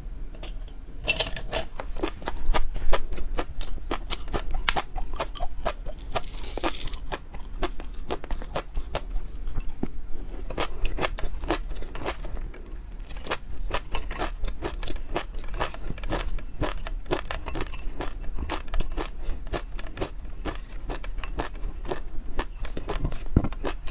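Close-miked eating sounds: steady chewing with many small wet mouth clicks and crackles.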